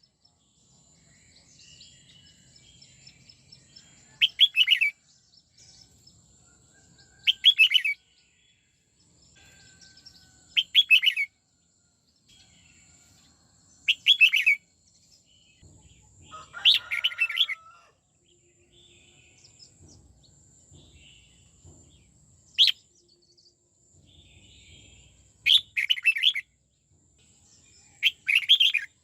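Red-whiskered bulbul singing short, fast, twisting warbled phrases, one roughly every three seconds, with one longer phrase midway and a single sharp note later on.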